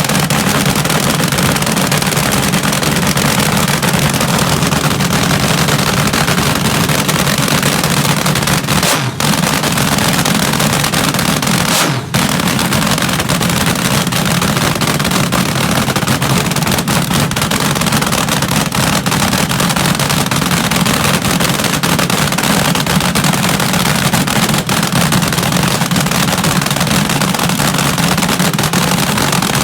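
Front-engine dragster's engine running loud and steady, with two brief dips in the sound about nine and twelve seconds in.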